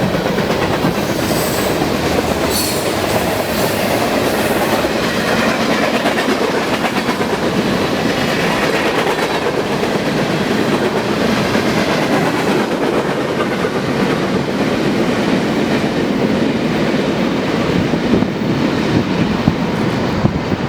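A train's cars rolling past close by: a steady, loud rumble and clatter of steel wheels on the rails, with wheels clacking over rail joints.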